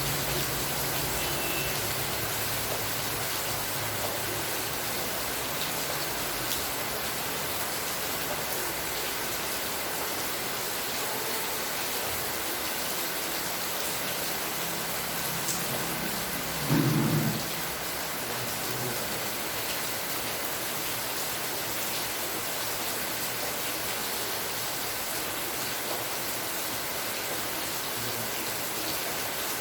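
Steady rain falling, an even hiss of drops. About two-thirds of the way through there is one short low sound, louder than the rain.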